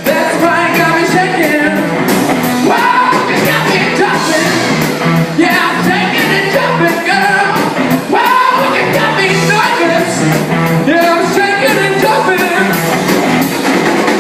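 Live rock and roll band playing, with singing over the band and a steady drum beat.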